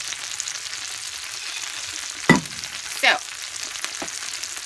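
Butter sauce sizzling and spattering in a hot skillet, with a steady hiss and fine crackling. The heat may be set too high. Two short, louder sounds falling in pitch come about two and three seconds in.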